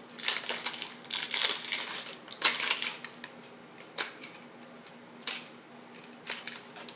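Toy packaging being opened by hand: dense crinkling and crackling for about the first three seconds, then a few scattered sharp clicks as it is handled.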